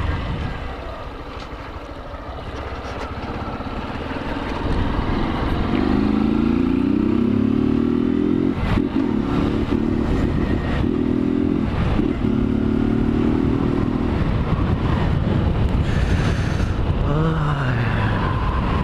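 A motorcycle engine pulls away and accelerates through several gears; its pitch climbs and breaks at each shift, about four times. Near the end it eases off and the pitch falls. Wind rushes over the microphone throughout.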